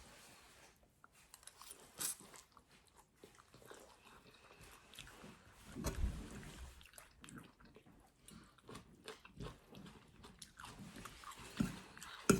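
A person biting and chewing crunchy food close to the microphone: irregular crunches and clicks, the loudest about six seconds in and just before the end.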